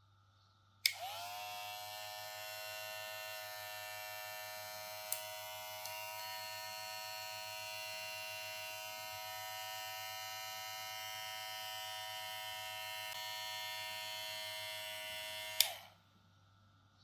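Moozie HG1901 cordless hair clipper switched on with a click, its motor spinning up within a moment to a steady buzzing whine. It runs evenly for about fifteen seconds for an RPM test, then is switched off with a click near the end.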